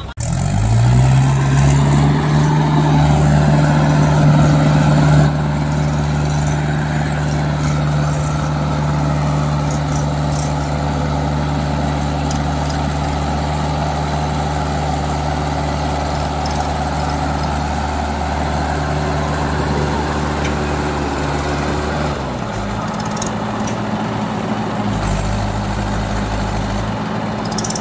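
Mahindra tractor diesel engine revving up and then running hard at steady high revs. It is loudest in the first few seconds, and the engine note shifts to a different pitch about three quarters of the way through.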